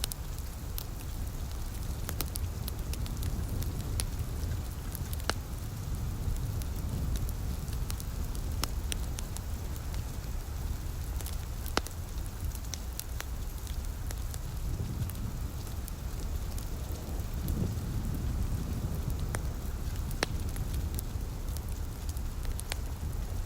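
Wood fire crackling, with scattered sharp pops over a steady low rumble and hiss.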